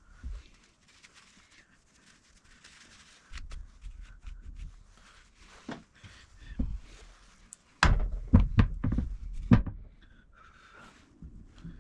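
Tools and parts being handled in a workshop: scattered clicks and light knocks, then a quick run of about five sharp knocks about two-thirds of the way through.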